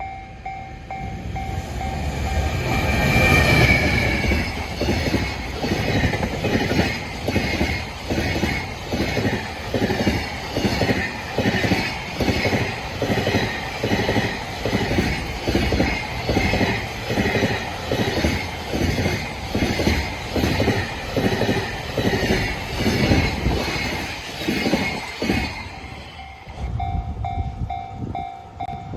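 A train passes over a railway level crossing: a loud rush as it arrives, then a long run of rhythmic wheel clacks over the rail joints that stops about 26 seconds in. The crossing's warning bell rings in a steady pulsing pattern at the start and comes through again once the train has passed.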